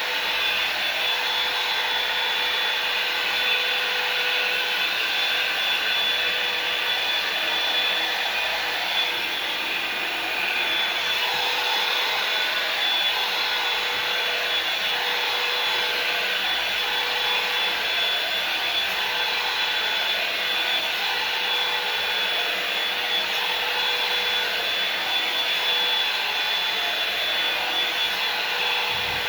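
Hand-held hair dryer running steadily, a constant blowing rush with a steady motor whine.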